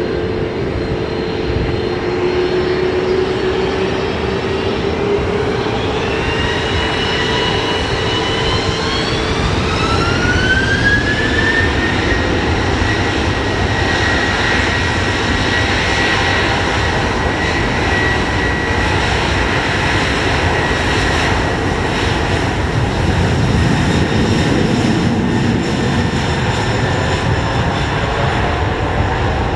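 Jet airliner engines spooling up for takeoff: a whine rises in pitch over several seconds, then holds steady over a broad roar that grows louder.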